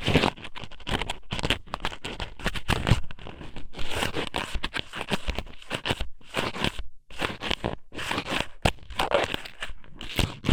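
Strips of squid sōmen (raw squid cut into noodles) pushed and rubbed inside an ASMR microphone's ear, giving dense, irregular scratching and crackling with short pauses.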